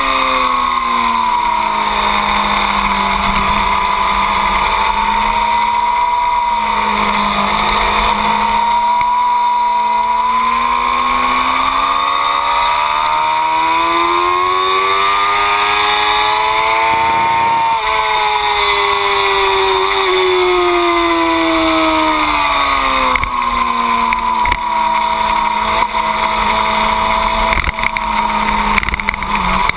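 2008 Yamaha R6's inline-four engine ridden hard at track pace, with a steady rush of wind noise. The revs fall over the first few seconds, climb steadily for several seconds to a sudden drop about halfway through, then fall and rise again near the end.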